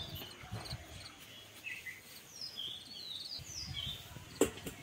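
Rural outdoor background with small birds giving short, falling chirps, and a single sharp knock near the end.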